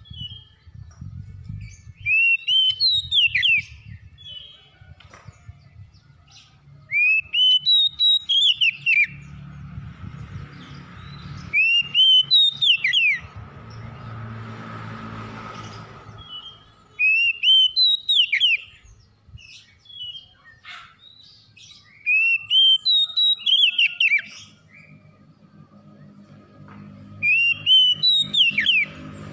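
Oriental magpie-robin (kacer) singing: a loud whistled phrase of quick rising and falling notes, about a second and a half long, repeated about every five seconds. A faint low rumble lies underneath in the middle and near the end.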